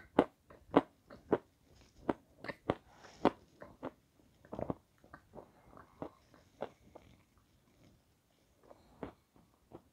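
Close-miked chewing of a crunchy, snow-white food, with sharp crunches several times a second. The crunching thins out into a brief lull near the end.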